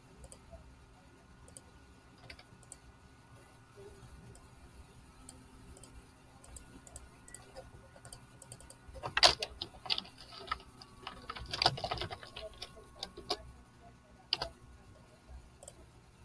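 Scattered clicks of a computer mouse and keyboard, with a quicker run of key presses about nine to twelve seconds in, over a faint steady hum.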